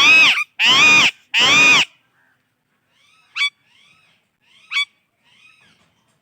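A Psittacula parakeet giving three loud, harsh squawks in quick succession, then softer chattering chirps broken by two sharp rising whistle-like notes.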